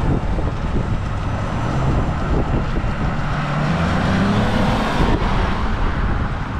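A car running with wind rushing across the microphone; a few seconds in, the engine note rises as the car speeds up.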